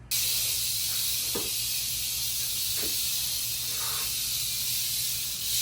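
Mexican West Coast rattlesnake (Crotalus basiliscus) rattling its tail, a steady high buzz that starts suddenly and keeps going, the snake's defensive warning. A couple of faint knocks come in the first few seconds.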